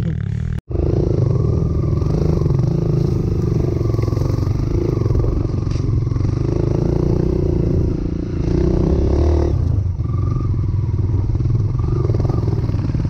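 Trail motorcycle engine running as the bike is ridden, its pitch shifting with the throttle. The sound cuts out for an instant just over half a second in.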